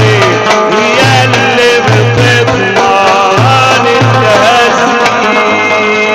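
Middle Eastern instrumental music from an inshad band: a winding, ornamented melody over a low pulsing beat. The beat drops out near the end, leaving a held chord.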